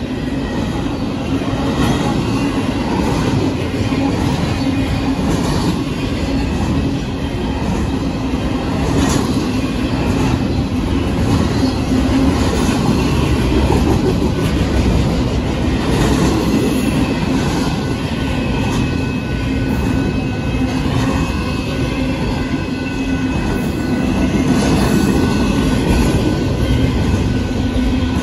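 Union Pacific double-stack intermodal train cars rolling past: a steady, loud rumble of steel wheels on rail, with repeated clacks every second or two as the wheels cross rail joints.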